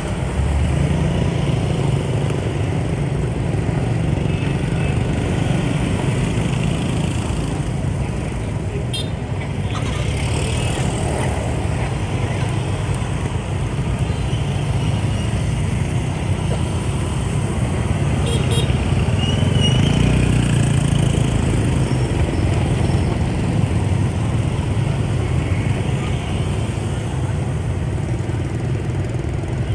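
Motorbike riding in dense rush-hour traffic: the steady engine rumble of the bike and the many motorbikes around it.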